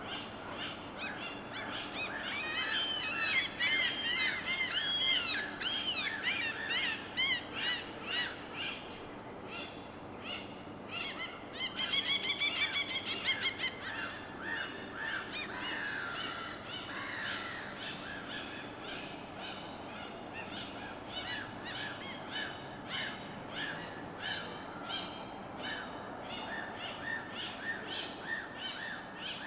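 Birds calling over a steady soft background wash, with a flurry of arched chirping calls early on and a fast run of rapidly repeated notes about twelve seconds in.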